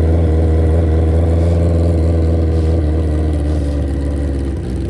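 Engine running steadily at a fairly constant speed, with a strong deep low end.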